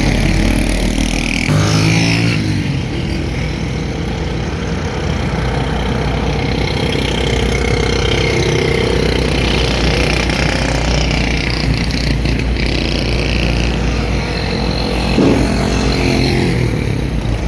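Heavy road traffic: engines of trucks, buses, cars and motorcycles running continuously as they pass. A passing vehicle's engine pitch glides about two seconds in, and again near the end.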